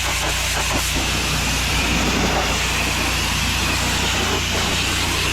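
Gas pressure washer engine running steadily, with the constant hiss of a high-pressure water spray from an X-Jet nozzle rinsing paint off a deck.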